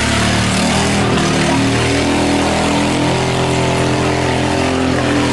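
Toyota 4Runner tough truck's engine revving hard, its pitch wavering up and down, as the truck spins its tires in deep mud trying to drift around an obstacle.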